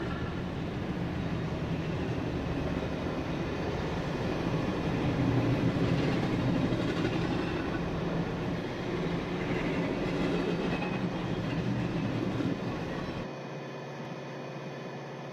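A train running along the rails, a steady rumble that swells about five seconds in and drops away abruptly near the end.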